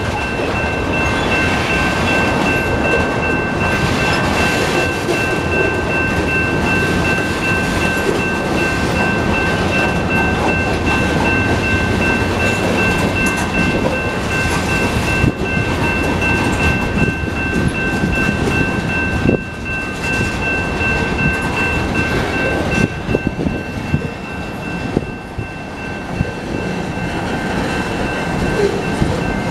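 BNSF freight train cars rolling past with a loud, steady rumble and clatter of wheels on the rails. A steady high ringing tone is held throughout, and a few sharper clanks come in the middle.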